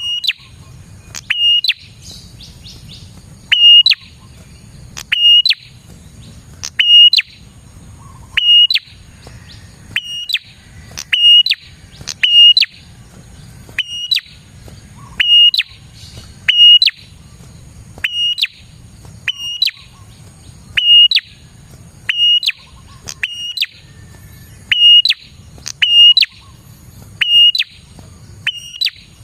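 Prinia (prenjak) calling a short, sharp, high note over and over, about one every second and a half, in a steady string.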